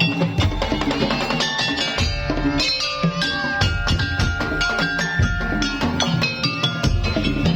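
Madurese musik daul (tong-tong) ensemble playing: wooden slit drums and drums beat a busy rhythm under ringing melodic tones, some notes held for a second or two about halfway through.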